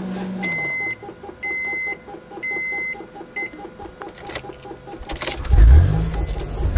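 Electronic beeping: three steady half-second beeps about a second apart, then a short fourth one, over a fast pulsing hum. Near the end a loud low rumble with a wavering pitch comes in.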